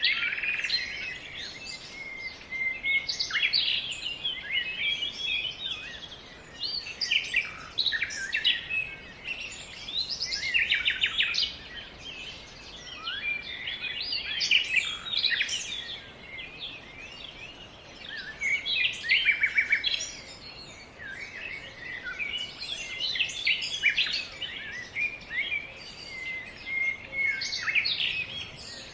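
Birdsong: a continuous run of overlapping chirps, trills and rapid note series.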